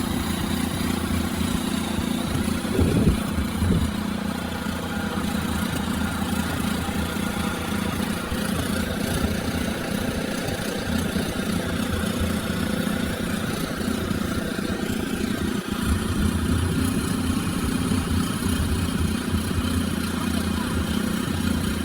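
Small engine of a David Bradley garden tractor running steadily.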